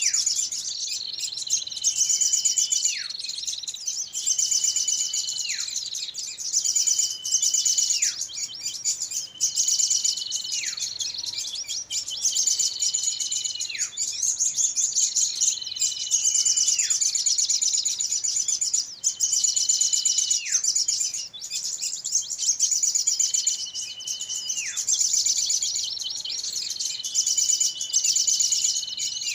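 Small-bird lure recording: dense, rapid, high twittering and chirping of agitated small birds. Every few seconds a whistle is held level and then drops steeply in pitch.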